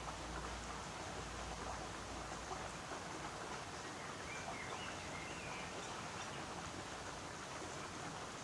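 Steady hiss of falling rain, with a bird giving a few short warbling notes about halfway through. A low rumble runs under it for the first few seconds.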